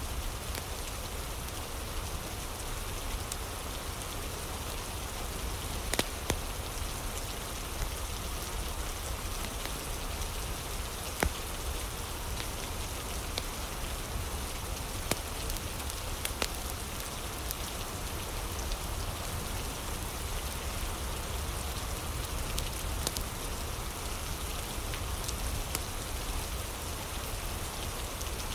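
Steady rain falling, with a few sharp pops from a crackling fire, about five of them scattered through, the loudest near 6 and 11 seconds in.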